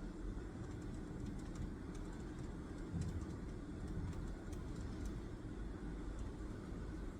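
Steady low background rumble of a room, with faint light ticks and scratches of writing at a desk and one soft low bump about 3 seconds in.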